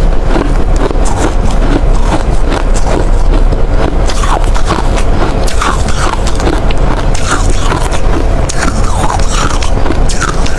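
Close-miked crunching of ice being chewed: a dense, unbroken run of sharp, loud crunches.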